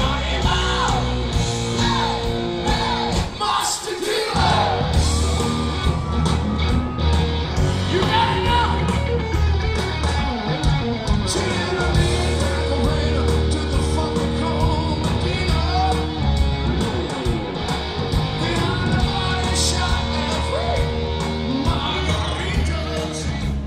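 Live rock band playing with electric guitar, bass and drums, and a voice singing and yelling over it. The bass and drums drop out for a moment about four seconds in, then the music carries on.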